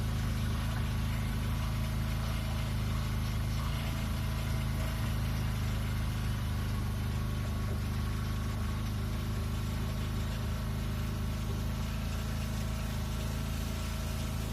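Boat engine running at a steady speed, a continuous low drone with a faint steady whine above it.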